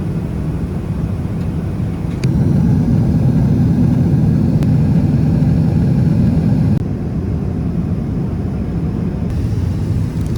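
Steady low drone of jet engines and airflow heard inside the cabin of a Boeing 777 airliner. It steps louder about two seconds in and drops back about seven seconds in.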